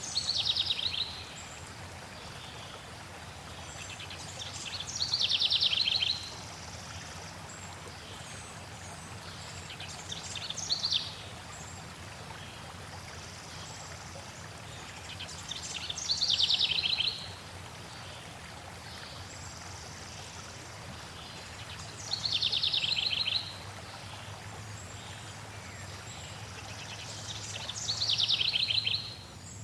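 A songbird repeats the same short, fast trilled phrase six times, about every five to six seconds, each about a second long and falling in pitch. Under it runs a steady rush of flowing water.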